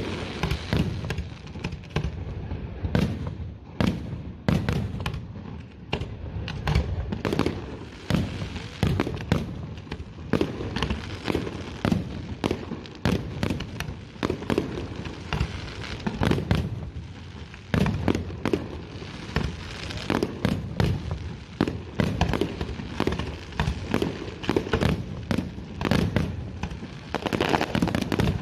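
Fireworks display going off in a dense, unbroken barrage: many sharp bangs and booms a second, with crackling in between.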